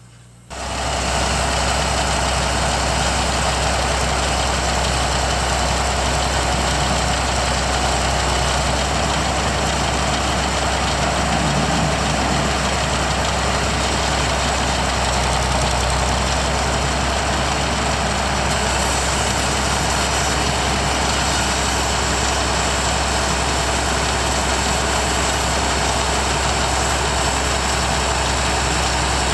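Farm tractor engine running steadily under load in the hay field, starting suddenly about half a second in.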